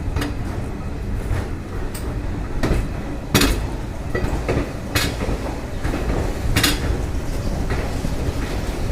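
A passenger train moving slowly past a station platform: a steady low rumble of the carriages, with sharp metallic clacks every second or so, the loudest about three and a half seconds in.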